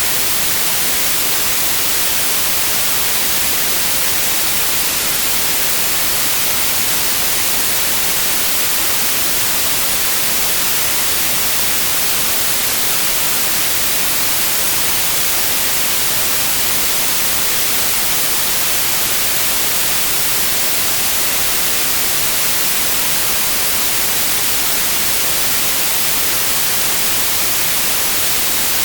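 Steady synthetic white noise: an even, unchanging hiss across the whole range, bright in the highs, with no events or changes.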